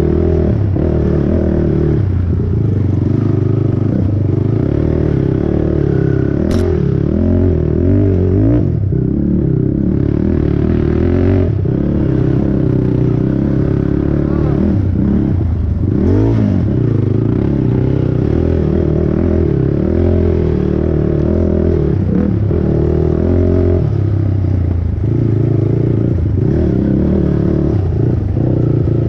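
Honda TRX450R's single-cylinder four-stroke engine running hard under race load, its pitch rising and falling again and again as the throttle is worked.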